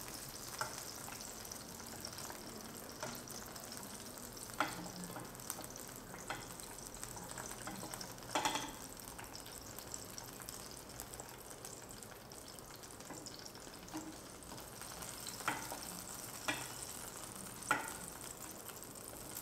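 Stuffed pointed gourds shallow-frying in oil in a metal frying pan, a steady sizzle. A wooden spatula knocks and scrapes against the pan every few seconds as the gourds, fried golden brown and softened, are turned and lifted out.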